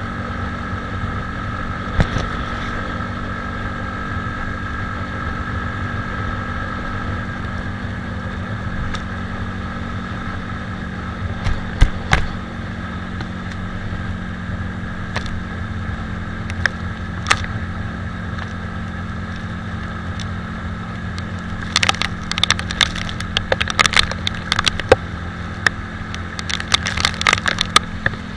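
Italika 250Z motorcycle engine running at a steady pitch while riding, under a steady rush of wind and road noise. A few sharp clicks come through, and from about three quarters of the way in a quick flurry of sharp ticks and clicks rides over the engine.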